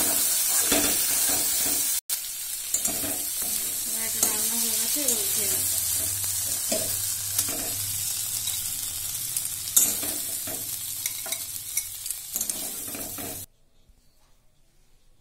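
Spiced black chickpeas and potato sizzling in a metal kadai while a metal spatula stirs and scrapes the pan. The sound drops out for an instant about two seconds in and cuts off abruptly near the end.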